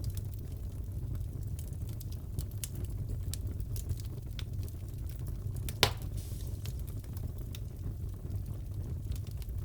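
Fireplace fire crackling: scattered sharp pops over a low steady rumble, with one loud pop about six seconds in.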